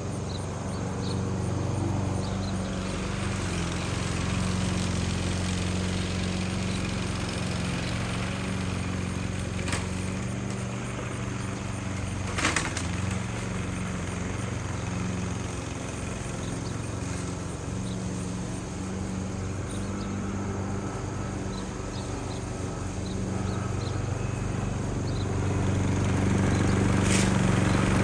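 Small petrol engine of a grass cutter running steadily, growing louder over the last few seconds, with a couple of sharp clicks partway through.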